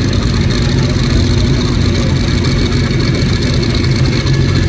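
Heavy pulling vehicle's engine running loud and steady, with no clear rise or fall in pitch.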